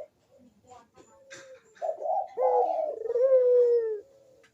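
Puter (ringneck dove) cooing: a couple of short coos about two seconds in, then one long coo falling slightly in pitch that stops about four seconds in.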